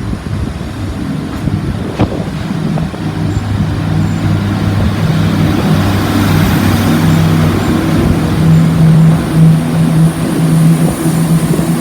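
Diesel train engine running at a steady low pitch, growing louder over the first six seconds or so and then holding; a single faint click about two seconds in.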